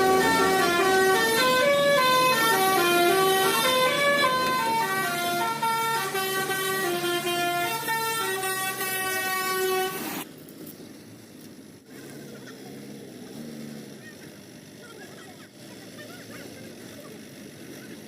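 Truck's musical horn playing a quick tune of stepped notes, then cutting off suddenly about ten seconds in, leaving a quieter low, steady engine sound.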